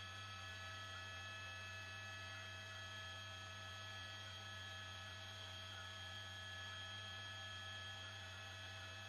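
Steady electrical hum: a constant low drone with a few faint, thin, steady whines above it, on an otherwise quiet audio line.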